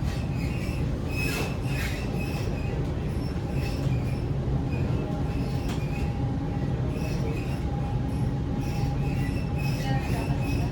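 Sydney Trains Waratah A set double-deck electric train running, heard from inside the carriage: a steady rumble of wheels on the track under a constant hum, with short wheel squeals coming and going throughout.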